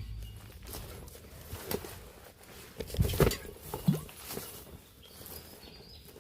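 Irregular knocks and scuffs, a handful of sharp ones with the loudest cluster about three seconds in, over a low rumble at the start.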